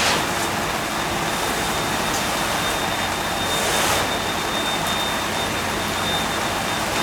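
Steady rushing spray of a fire hose's water stream, over a low steady engine hum, with a thin high whine throughout; the spray swells briefly about three and a half seconds in.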